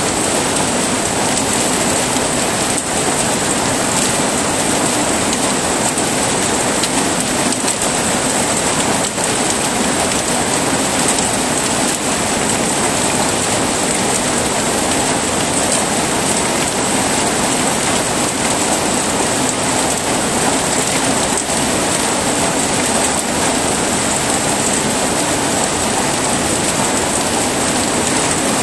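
Steady heavy rain falling, a dense even hiss with faint scattered ticks of drops.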